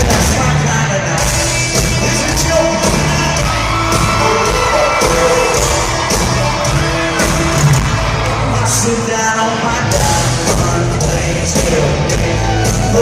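Live amplified country-rock band playing at full volume with a lead singer, over a steady drum beat.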